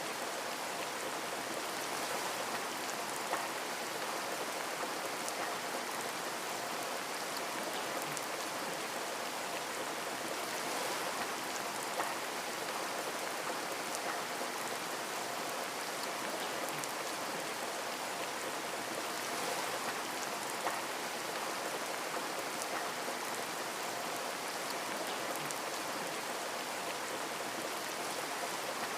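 Steady rain falling on a window, an even hiss with single drops ticking louder now and then.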